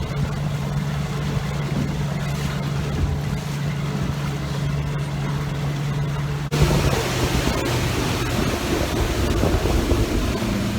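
Motorboat engine running with a steady low hum. About six and a half seconds in, the sound switches abruptly to louder rushing wind and water noise from the boat under way, with the engine fainter beneath it.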